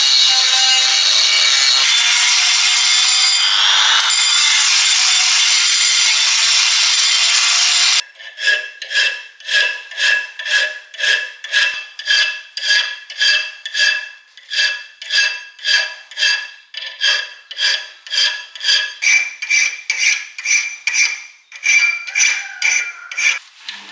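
A steel blade being worked by hand with a file: even strokes, about two a second, each with a metallic ring. Before that, a steady high hiss of abrasive work on the metal that cuts off suddenly about eight seconds in.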